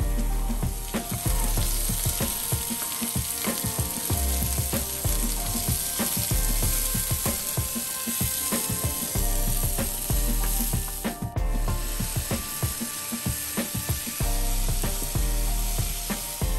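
Cherry tomatoes and onion sizzling in hot oil in a frying pan, with a wooden spatula clicking and scraping against the pan as they are stirred, over background music with a deep bass.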